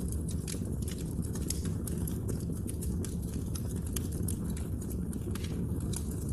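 Wood fire burning in a fireplace, with a steady low rumble of the flames and frequent irregular sharp crackles and pops from the burning wood.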